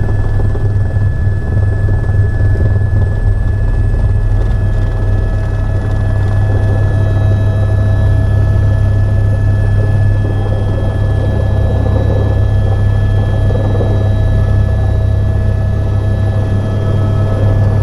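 Helicopter in flight: a loud, steady rotor drone with constant higher whining tones over it.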